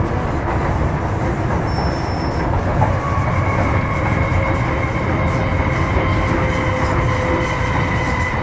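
Running noise inside an MTR Metro-Cammell M-Train electric multiple unit with GEC GTO chopper control, travelling between stations. A steady low rumble of the wheels on the track runs throughout, and a steady high whine sets in about three seconds in.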